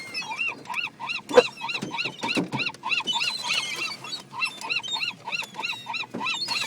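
Dog whining in quick, repeated cries that rise and fall in pitch, about four a second, excited by the birds. One sharp knock sounds about a second and a half in.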